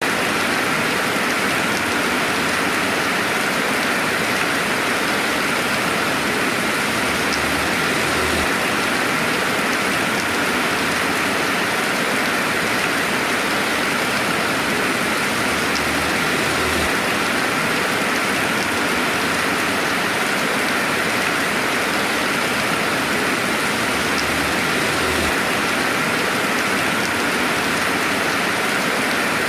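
Steady, dense rainfall with no thunder. It holds an even level throughout.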